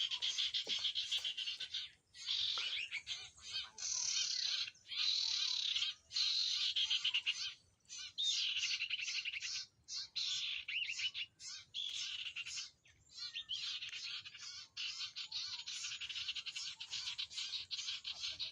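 Common iora (the 'kunyit kuning') singing in rapid, chattering trilled phrases of a second or two, broken by short pauses.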